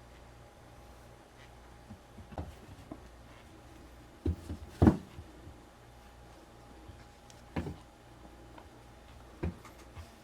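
Scattered knocks and light thumps from a kitten playing with a cat toy, a short cluster of them about four to five seconds in being the loudest, over a faint steady hum.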